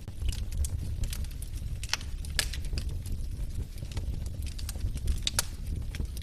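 Wood logs burning in a fireplace, crackling with sharp, irregular pops over a low steady rumble. The loudest pops come about two and a half and five and a half seconds in.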